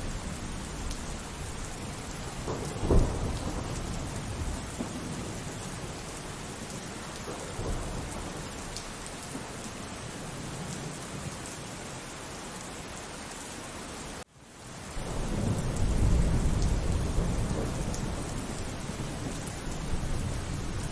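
Steady rain with thunder: a sharp crack of thunder about three seconds in, then a long, deep roll of thunder that builds and rumbles on through the rest. The sound cuts out for an instant just before the roll.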